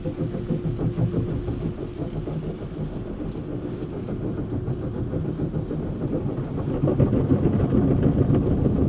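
Automatic car wash machinery working over a car, heard from inside the cabin: a dense rumbling and churning that grows louder about seven seconds in.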